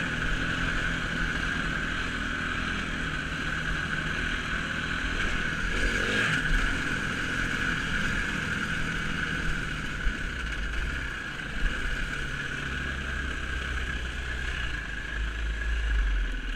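Dirt bike engine running at the track, its note shifting in steps, with wind noise on the microphone.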